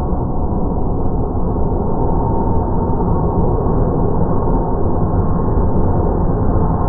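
Jet airliner engines on landing approach: a loud, steady rumble with a faint whine.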